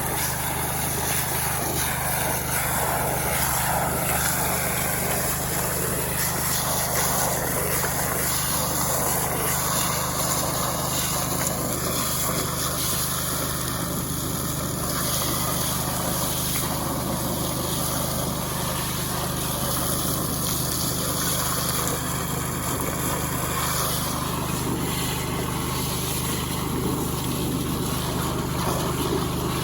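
Small Robin petrol engine running steadily at constant speed.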